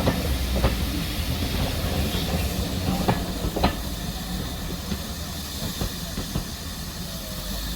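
Steam locomotive hissing steam, with sharp knocks from the wheels running over rail joints, the sound easing off slightly as it goes.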